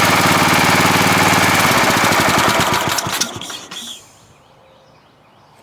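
Cub Cadet riding mower's 17.5 horsepower OHV engine running, then cutting out about three seconds in and running down to a stop within about a second. The engine's carburetor floods, and the owner expects it needs a rebuild kit.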